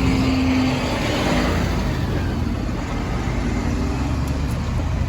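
Loud vehicle noise close by: a low rumble with a steady engine tone that fades away over the first second and a half.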